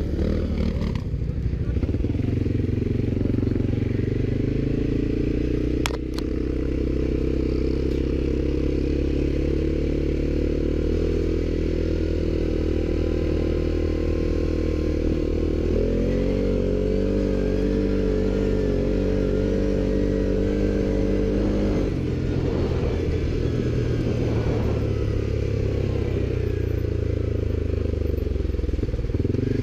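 ATV engine running steadily while riding. Its pitch steps up about halfway through, holds for several seconds, then drops back. There is a single sharp click early on.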